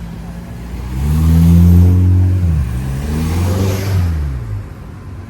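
A car accelerating past: the engine note climbs, dips sharply about two and a half seconds in, climbs again, then fades away.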